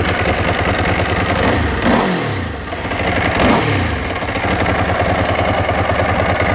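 Ducati 749 S's L-twin engine idling on its stock exhaust with a rapid, even beat. The throttle is blipped twice, about two and three and a half seconds in, and each time the revs rise briefly and fall back to idle.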